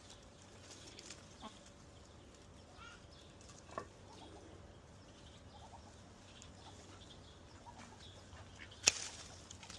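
Faint, scattered short calls of domestic fowl, with one sharp click near the end.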